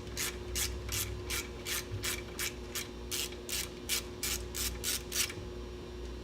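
Ratchet clicking about three times a second as a 3/16-inch hex bit backs a pipe plug out of a fitting; the clicking stops about five seconds in.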